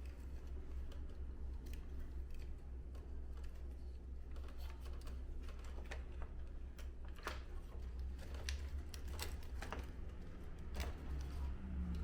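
Scattered light clicks and taps as parts of an air conditioner's indoor unit are handled and fitted during reassembly, over a low steady hum.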